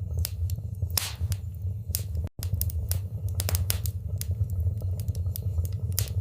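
Wood fire in a fireplace crackling, with irregular sharp pops and snaps over a steady low rumble of burning. The sound cuts out for an instant a little over two seconds in.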